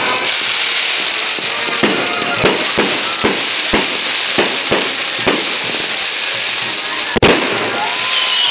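Fireworks display: a steady dense crackling hiss with a string of sharp bangs from about two to five seconds in, and one louder bang near the end.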